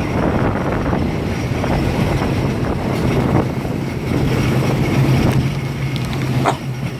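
Diesel railcar running: a steady low engine hum under rumbling running noise, with wind on the microphone. The engine hum grows stronger about three seconds in.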